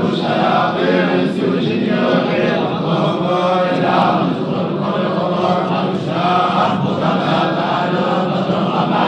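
Quran recitation: Arabic verses chanted in a melodic, drawn-out style by a man's voice, continuous and sustained.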